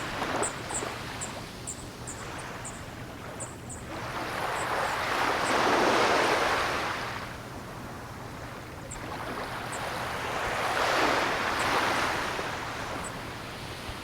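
Ocean waves breaking and washing up the shore: the surf swells and fades twice, about five seconds apart. Faint short high chirps come through, many in the first few seconds and only now and then after.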